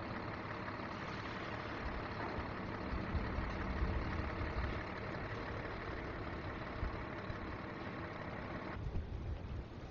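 Strong wind rushing, with irregular low rumbling gusts buffeting the microphone. The higher hiss drops away suddenly near the end.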